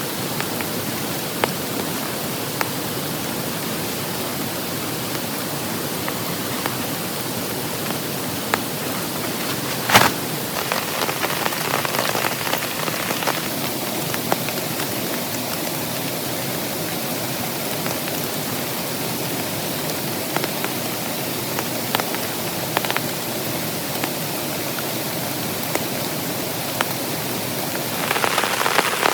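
Heavy rain falling steadily, with scattered individual drops striking close by. There is one sharp knock about ten seconds in, and the rain grows louder and denser near the end.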